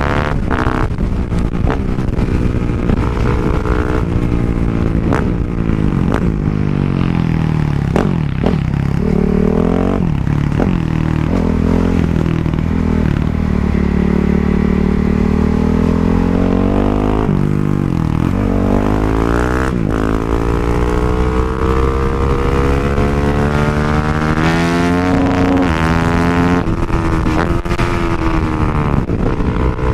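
Motorcycle engine running hard, its pitch climbing through several long rises and dropping sharply between them as the rider accelerates, shifts and backs off. A few quick clicks or knocks come near the start.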